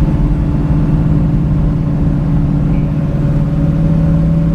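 Chevrolet Nova hot rod's engine running steadily while cruising, with road rumble, its note edging slightly higher near the end.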